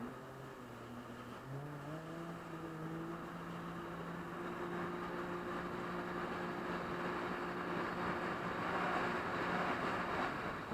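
Jet ski engine picking up revs in two quick steps near the start, then running at a steady pitch, with rushing water and wind noise growing louder toward the end.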